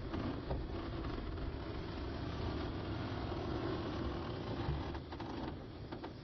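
Heavy diesel earthmoving machinery (dump trucks and a bulldozer) running in a steady low rumble, with a few faint knocks.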